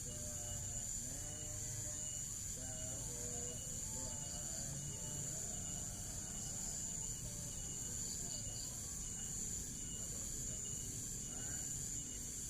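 Crickets chirring: a steady, high-pitched insect trill that runs on without a break.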